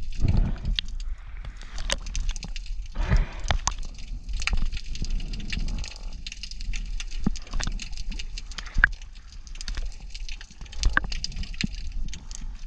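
Irregular underwater crackling and clicking, with low rumbling surges of moving water.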